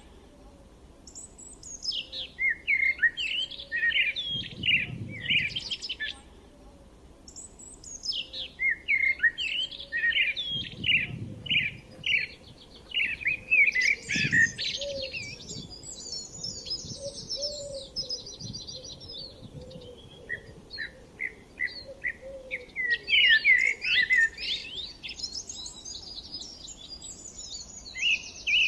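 Songbirds singing and chirping in bursts of quick twittering phrases, several calls overlapping, with short lulls between the bursts.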